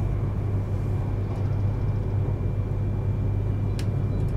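Steady running noise of a Yamagata Shinkansen train at speed, heard inside the passenger car: a continuous low rumble with a faint steady whine above it, and one short click about four seconds in.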